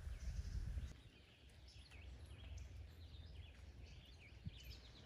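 Faint birds chirping and calling in an open field, many short calls overlapping. A low rumble on the microphone underlies the first second.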